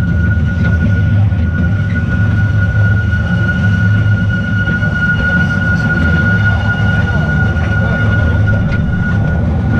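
Small narrow-gauge tourist train running along its track: a steady low rumble with a constant high-pitched whine over it, heard from on board.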